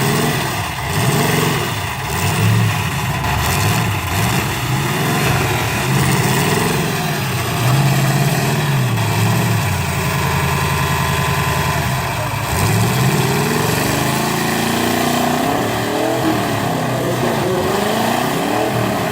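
Engines of several stock demolition-derby cars and trucks revving up and down over one another, their pitch repeatedly rising and falling.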